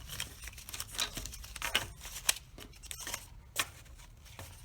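Cardboard tubes being gathered up by hand, clicking and tapping against each other in a series of irregular light knocks.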